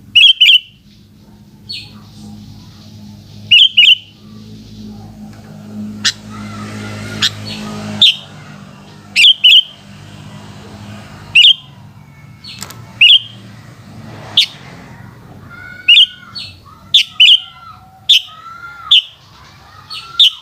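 Sooty-headed bulbul (kutilang) giving short, sharp, loud calls over and over at irregular intervals, joined near the end by lower gliding whistled notes.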